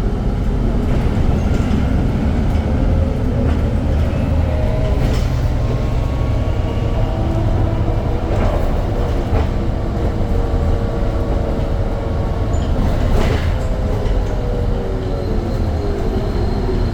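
Irisbus Citelis 10-metre diesel city bus on the move: a steady low drivetrain rumble with a faint whine that slowly rises and falls in pitch as the bus changes speed. A few brief rattles come through now and then.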